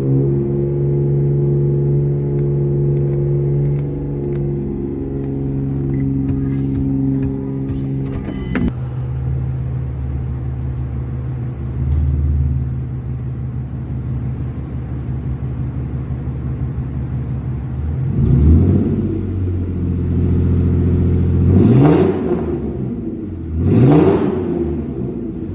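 Ford Mustang 4.0 V6 with a straight-piped exhaust (catalytic converters kept) idling steadily, then revved: a short blip a little past halfway and two quick revs up and back down near the end.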